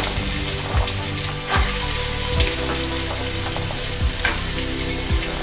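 Diced carrot sizzling steadily as it fries in hot oil with spices in a non-stick kadai.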